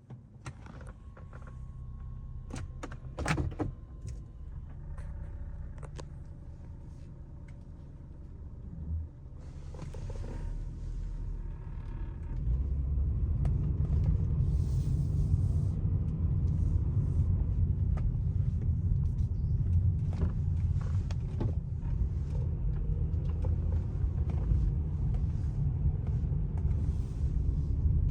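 A 2004 Lexus GS300's 3.0-litre inline-six running with a steady low rumble, and a few clicks and a sharp knock a few seconds in. About twelve seconds in, the rumble grows louder and holds steady, as the car gets under way.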